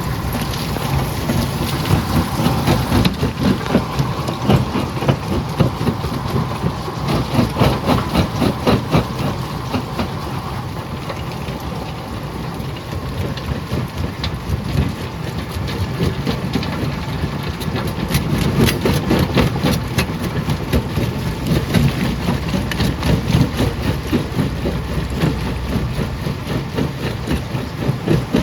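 Jaw crusher running and crushing rock: a steady low machine drone with dense, rapid cracking and clattering of stone, busier in two stretches with a calmer spell in between.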